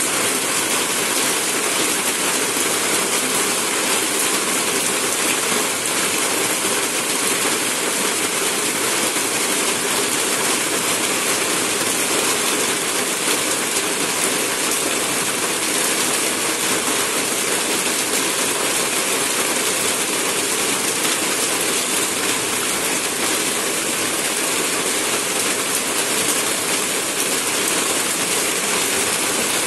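Heavy wind-driven rain pouring down steadily, a dense even hiss of rain hitting the road and leaves.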